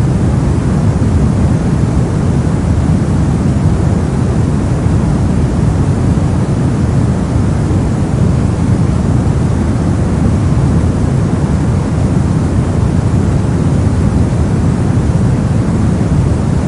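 Steady synthetic soft noise, heavy in the lows and rolled off in the highs, like a deep rumbling hiss, unchanging throughout.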